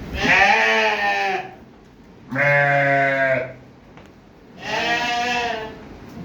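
Dumba fat-tailed sheep bleating: three long bleats, each about a second long, the middle one lower-pitched than the other two.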